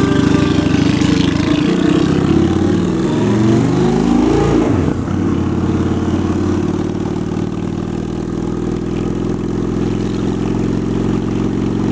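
2003 Honda Shadow Spirit 750 V-twin with aftermarket Cobra exhaust pipes pulling away under acceleration. Its pitch climbs and drops through gear changes over the first five seconds or so, then it runs steadily at cruising speed.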